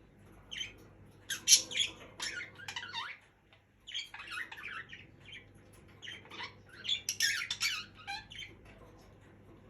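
Budgerigars chirping and chattering in quick runs of short, scratchy calls, with brief pauses between bursts.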